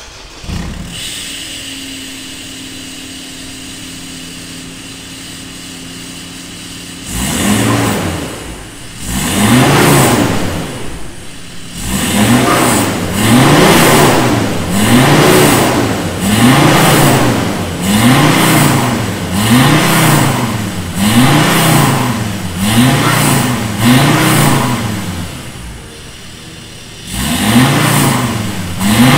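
Ford Ranger Wildtrak turbodiesel engine running through a new full stainless-steel exhaust with a custom downpipe. It idles steadily for about seven seconds, then is revved over and over, about once a second, each rev rising and falling in pitch. It settles briefly back to idle near the end before the revving starts again.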